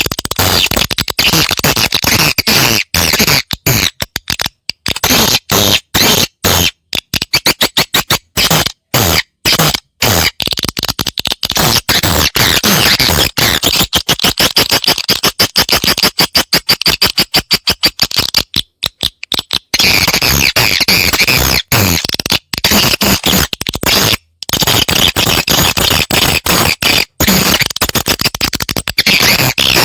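Recorded swiftlet calls: dense, rapid, high-pitched chirping and twittering, chopped by many brief gaps. This is a lure call played to attract swiftlets to nest in a swiftlet house.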